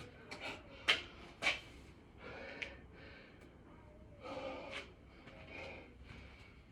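A man breathing hard from the exertion of six-count burpees, a series of short, sharp gasps and snorting exhalations. The loudest two come about one and one and a half seconds in.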